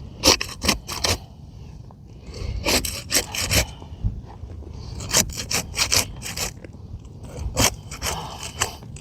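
Asphalt roof shingles being unsealed: short scraping, tearing strokes as the sealant strip between courses is broken loose. The strokes come in several quick groups.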